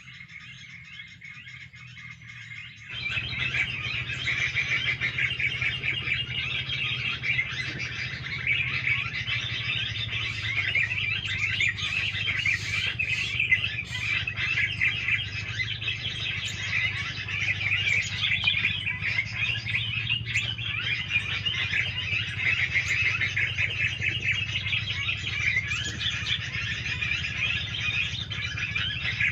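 Dense, continuous chirping of many small songbirds, starting abruptly about three seconds in, over a low steady hum.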